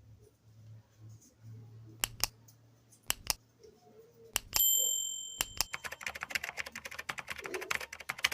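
Sharp clicks and taps of a metal clipper blade being handled, in pairs, then a short bright metallic ring about halfway through, followed by a fast run of crackling clicks.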